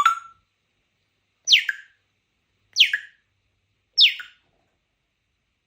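African grey parrot whistling: a brief sharp call right at the start, then three short whistles about a second and a quarter apart, each falling steeply in pitch.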